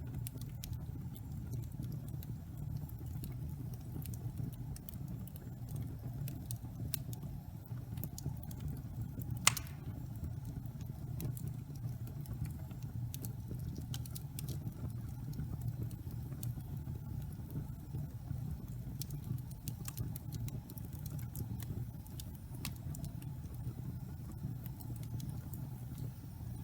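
Wood fire in a fireplace crackling: scattered sharp snaps and pops over a steady low rumble of burning logs, with one louder pop about nine seconds in.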